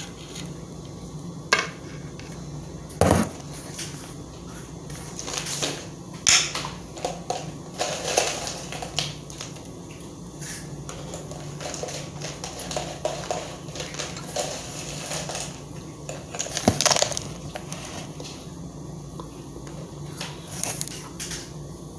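Kitchen handling sounds while breakfast is prepared: dishes, pans and utensils knocking and clinking now and then, with some crinkling and rustling, over a steady low hum.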